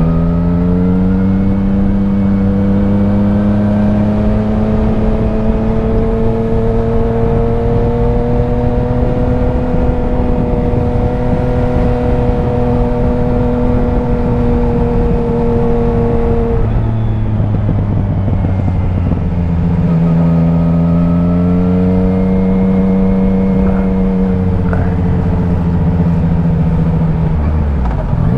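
Motorcycle engine running at a steady pitch with wind noise. About two-thirds through the revs fall away and then climb again, and near the end there is a quick dip and jump in engine pitch like a gear change.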